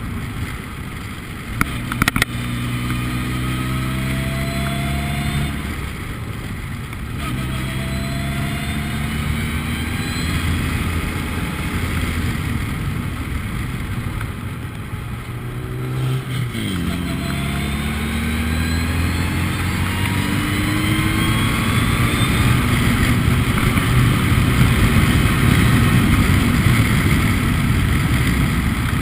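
Formula Ford race car engine under hard acceleration, its pitch climbing through the gears with breaks at the upshifts. About halfway through the pitch drops steeply as the car brakes and downshifts, then climbs again as it pulls away. Wind and road noise run underneath.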